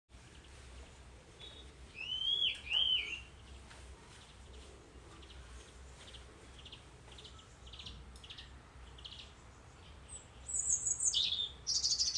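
Wild birds singing and calling. Two loud arching calls come about two seconds in, softer short repeated notes follow, and a loud, high, fast phrase near the end falls in pitch.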